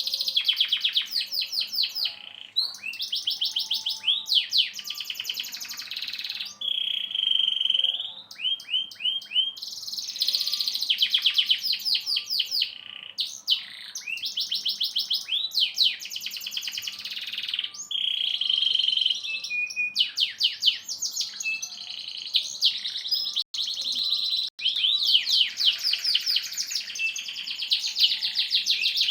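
Domestic canary singing a long, almost unbroken song: phrase after phrase of rapid trills of repeated notes, now and then a short held whistle, with hardly a pause between phrases.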